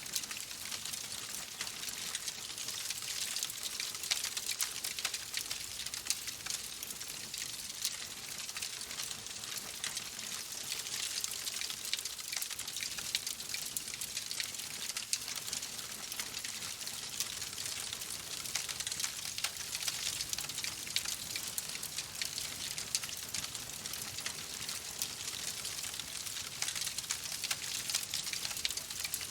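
Wood fire crackling steadily: a dense hiss full of small, rapid pops and snaps, with no larger bursts standing out.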